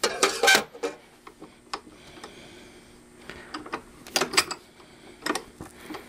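Light clicks, taps and clatter of metal tools and parts being handled at a workbench as the soldering iron is moved off a PL-259 connector on coax held in a vise. There is a cluster of clicks at the start, a couple of single ticks, then more taps about three and a half to four and a half seconds in and again near the end.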